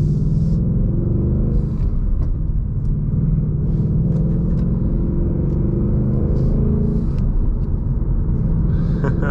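2021 Ford Mustang Mach 1's 5.0-litre V8 running steadily on the move, exhaust valves in normal mode, giving a low, even exhaust note with no big revs.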